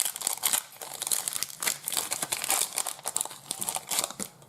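Foil Pokémon booster-pack wrapper being torn open and crinkled, a dense run of crackling.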